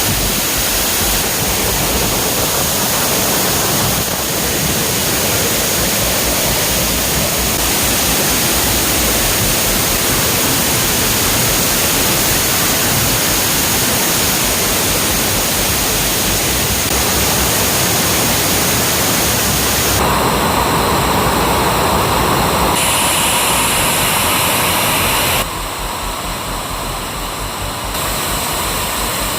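Big monsoon-swollen waterfall, a loud steady rush of falling water. The sound shifts abruptly about twenty seconds in and a few more times near the end, where it drops a little in level.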